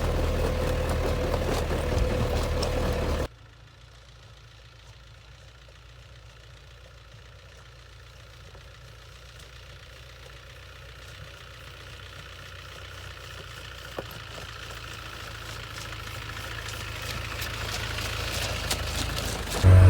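Land Rover Santana Series engine running close by with a steady hum. About three seconds in it cuts abruptly to a much fainter engine sound that grows steadily louder, then turns loud again just before the end.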